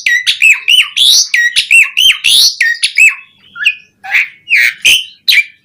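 Asian pied starling (jalak suren) singing loudly and at length: a fast run of repeated phrases, each a hooked whistle followed by a harsh rising sweep. About three seconds in it breaks off briefly, then goes on with more varied single calls.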